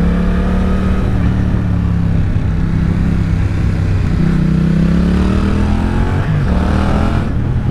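Yamaha MT-07 parallel-twin engine under way through corners. The revs ease slightly at first, then pull up from about halfway. They dip briefly about six seconds in, then climb again.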